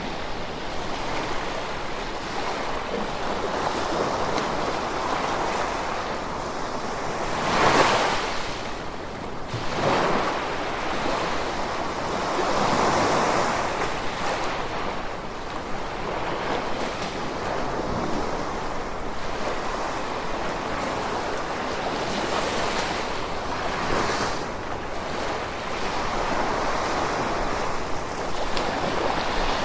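Gentle ocean waves washing onto a shore: a continuous surf wash that swells and ebbs, with a louder wave breaking about eight seconds in.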